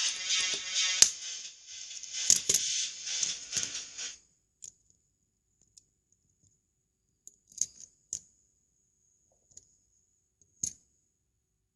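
Background music that cuts off about four seconds in. It is followed by a handful of short, sharp clicks, spaced irregularly, of plastic Lego bricks being handled and snapped together.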